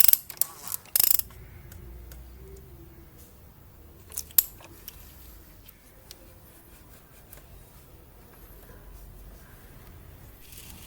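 Ratchet wrench clicking in a few quick bursts in the first second, then a sharp metallic clack about four seconds in, with only faint handling ticks after.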